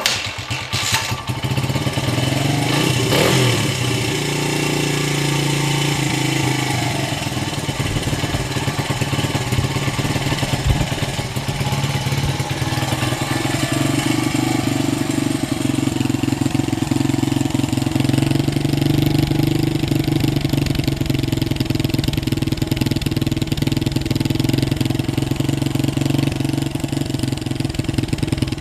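1996 Honda XR100's small single-cylinder four-stroke engine firing up suddenly, blipping briefly about three seconds in, then running steadily.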